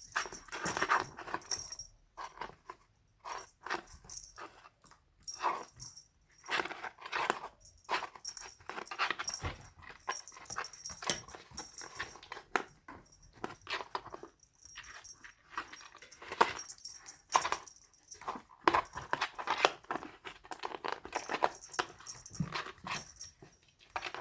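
Kittens playing in and around a cardboard box, making irregular short scuffles and bumps.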